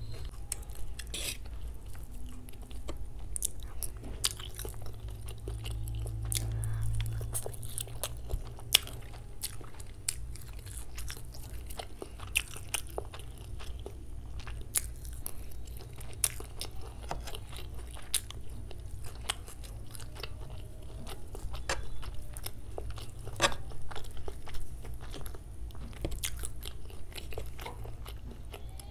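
Close-miked chewing and biting of chow mein noodles, with many sharp wet mouth clicks and crunches, over a steady low hum.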